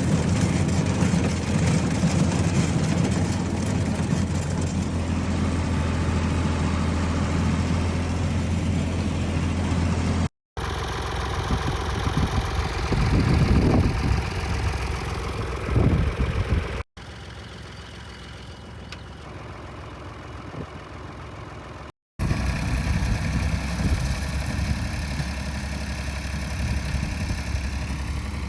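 Antique tractor engines running in a string of short clips cut hard together: a steady idle, then a stretch with two brief rises in engine speed, a quieter stretch, and a steady run again.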